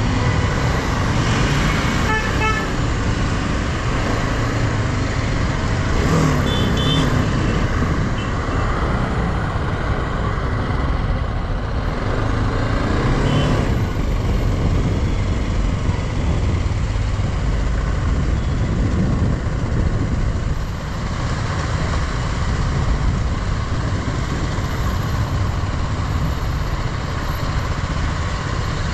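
Motorcycle riding through road traffic: a steady rush of wind and engine noise, with vehicle horns honking briefly a few times in the first several seconds.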